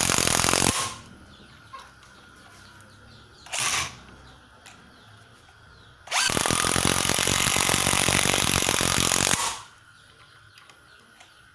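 Stanley SBI201D2K 18V cordless impact driver run in three bursts with a rapid hammering rattle: one cuts off about a second in, a brief blip follows, and a longer run of about three seconds starts halfway through.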